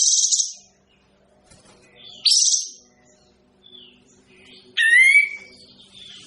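A caged songbird known to Indonesian bird keepers as kapas tembak, calling three times. Two short harsh, chattering bursts come about two seconds apart, then a clearer sliding whistled phrase near the end, over a faint steady low hum.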